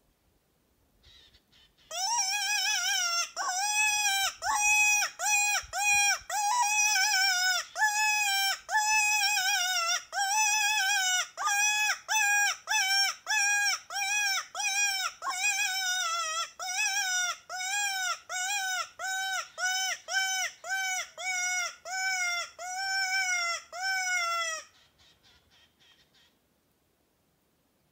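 A bird calling over and over: a long run of short, pitched calls, about two a second, that starts about two seconds in and stops a few seconds before the end.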